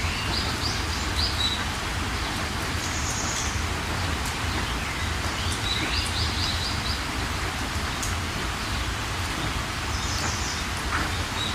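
Steady heavy rain with a low rumble underneath, while songbirds call in short, rapid chirping phrases every few seconds.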